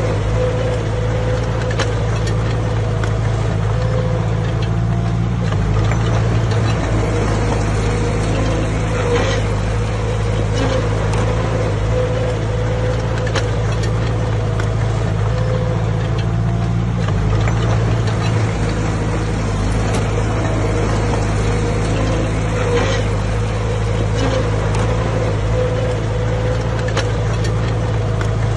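Heavy diesel engine of a working bulldozer running steadily, with scattered faint clicks and clanks.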